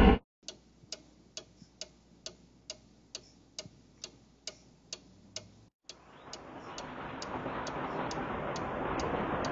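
Clock ticking steadily, about two ticks a second, after a loud sound cuts off abruptly at the start. From about six seconds in, a rushing noise swells louder and louder beneath the ticks.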